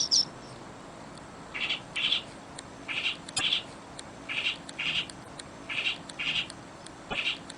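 A bird calling over and over in pairs of short notes, about one pair every second and a half, over a soft steady background hiss.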